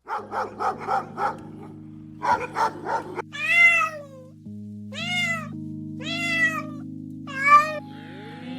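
Cat meowing: four separate drawn-out meows in the second half, after two quick runs of short rapid calls in the first three seconds. Steady background music underneath.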